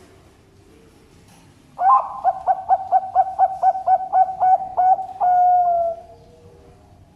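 Bangkok perkutut (zebra dove) cooing: a rapid, even run of short notes at about five a second, ending in one longer note that slides slightly downward.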